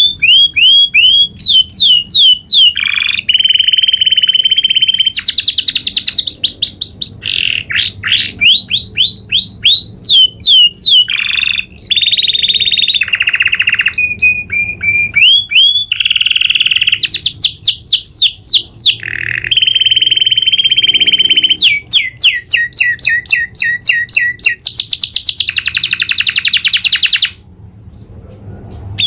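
Domestic canary singing a long rolling song: rapid runs of repeated sweeping notes alternate with fast trills and held rolls, with a brief pause near the end.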